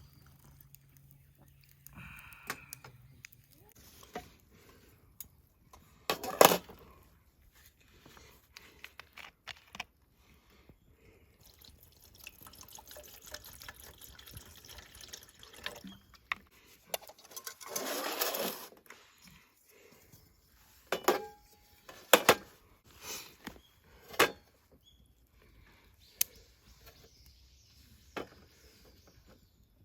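Liquid being poured and handled, with scattered clinks and knocks of camp cookware; the longest pour lasts about a second, a little past the middle.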